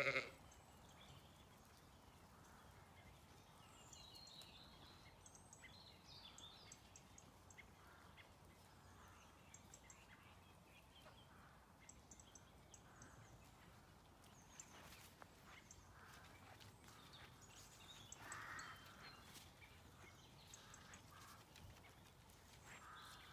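Quiet outdoor ambience with faint, scattered bird chirps and calls.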